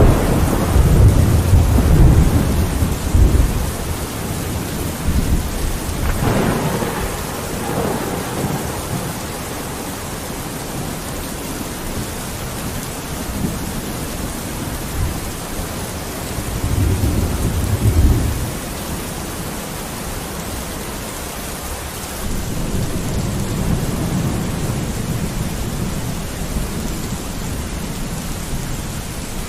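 Steady rain falling on a window, with several low rolls of thunder: the loudest in the first few seconds, another just before the middle, and a longer, softer rumble in the last third.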